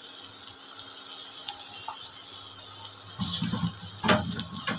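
Rice and shrimp masala sizzling steadily in a frying pan, with two brief low knocks about three and four seconds in.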